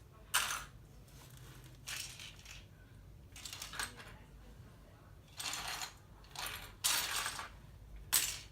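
Loose plastic LEGO pieces clattering and clicking as they are handled, in about seven short bursts.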